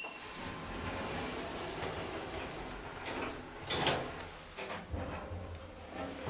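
Elevator doors sliding and the thyssenkrupp Evolution Blue traction elevator running, with a steady low hum and a few soft knocks. The loudest knock comes about four seconds in.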